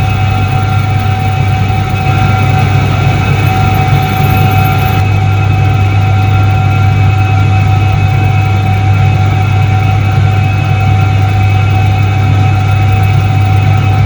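Soviet 1978 Iset-3 washing machine running: a loud, steady motor hum with a few fixed higher whining tones above it, unchanging throughout.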